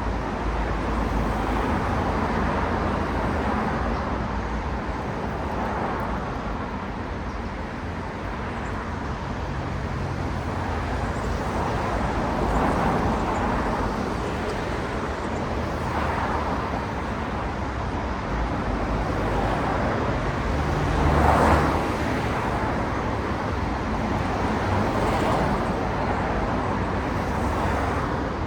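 Steady city road traffic: cars passing one after another, each swelling and fading as its tyres and engine go by, with the loudest pass about three quarters of the way through.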